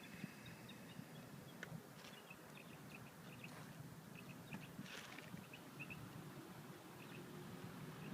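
Faint small-bird chirps, short and high, repeating every second or so over a low, steady background hum.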